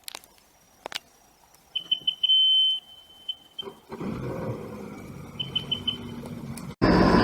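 A jet ski's high electronic beeps: a quick run of short beeps, one longer beep, then a few more. Its engine starts about four seconds in and runs, and near the end it gives way suddenly to a louder engine running steadily.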